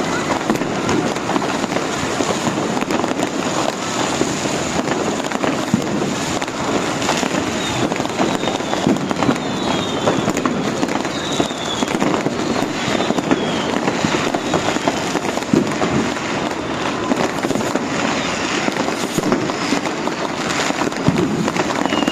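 Fireworks and firecrackers crackling and banging without a break. From about a third of the way in, several short high whistles fall in pitch, and another comes right at the end.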